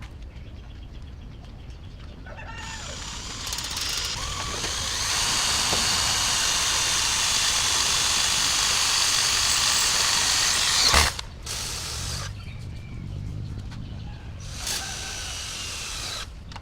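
A handheld power tool running for about eight seconds, building up and then holding steady, before cutting off abruptly with a sharp knock; quieter, intermittent tool noise follows.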